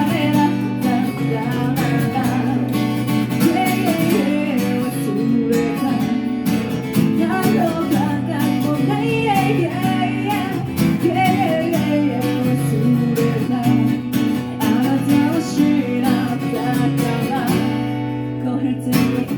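Acoustic guitar strummed and picked as song accompaniment, with a voice singing over it at times.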